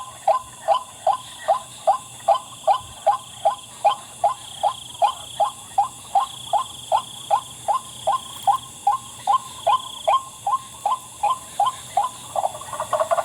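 White-breasted waterhen calling: a long run of short, evenly spaced 'wak' notes, about two to three a second, keeping a steady pace.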